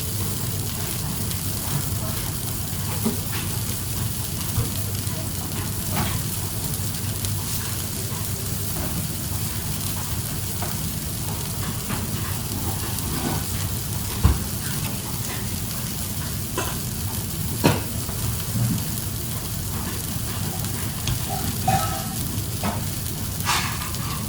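Food frying and sizzling in a pan, a steady hiss, with a few sharp knocks of a utensil against the pan scattered through it.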